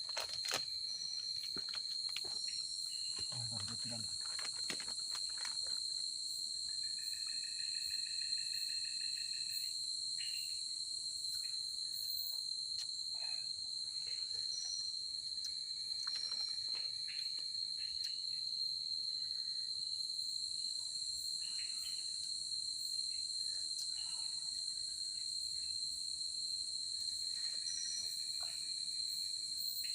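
Night-time forest insect chorus: a steady high-pitched trill that runs unbroken, with shorter two-note calls coming and going beneath it. A few soft knocks and a low thump in the first few seconds.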